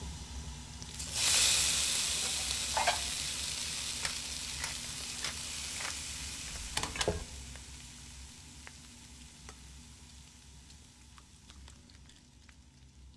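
Food frying in hot fat: a sizzle starts suddenly about a second in, with scattered pops and crackles, then slowly dies away.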